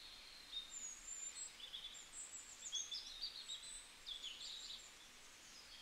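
Faint birdsong: small birds giving quick, high chirps and twitters, many short sliding notes in a row, as a quiet nature background.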